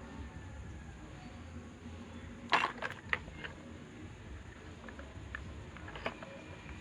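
A few sharp clicks and knocks of small hard parts or tools being handled, a quick cluster about two and a half seconds in and one more near the end, over a low steady background hum.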